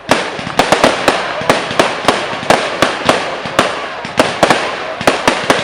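Firework display: a rapid string of sharp bangs and pops, several a second, over a continuous crackle.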